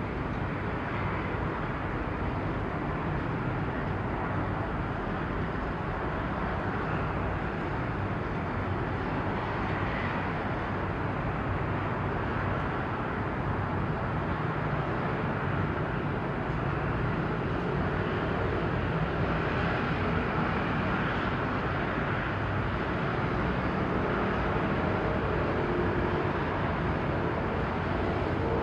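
Steady outdoor harbour background noise: a continuous rumble of distant engines and traffic, growing slightly louder toward the end.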